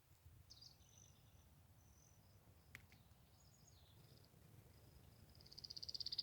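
Faint, scattered high bird chirps. About five seconds in, a rapid high trill grows louder; it is taken for a blackbird.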